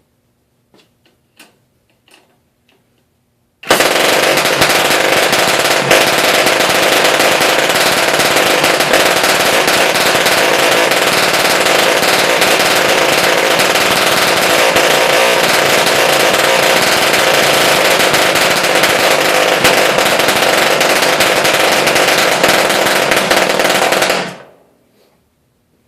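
1938 Clarke Troller outboard motor starting at once on its spring starter about four seconds in, after a few faint clicks. It runs loud and steady for about twenty seconds, then dies away quickly near the end.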